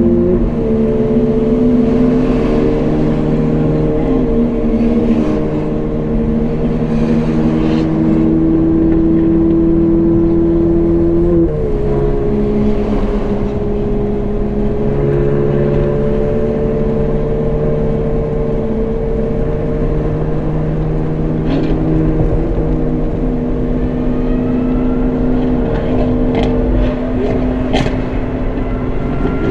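Lamborghini Aventador SVJ Roadster's V12 engine running steadily on the move, its pitch stepping twice: about half a second in and again about eleven seconds in.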